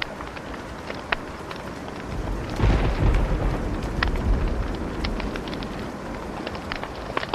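Wood fire crackling, with scattered sharp pops and snaps. About two seconds in, a low rumbling whoosh swells up and fades away over the next few seconds.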